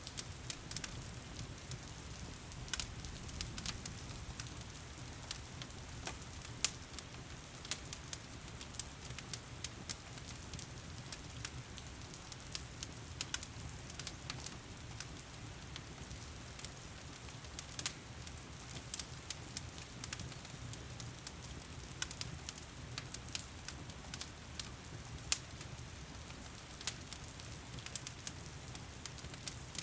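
Heavy rain falling steadily with a low rumble, over a fireplace fire crackling and popping in irregular sharp snaps.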